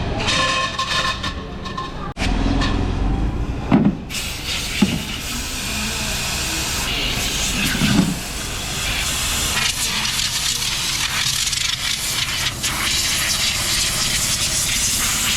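Machinery in a motorcycle wheel rim workshop running with a steady hiss, with a few sharp metal knocks.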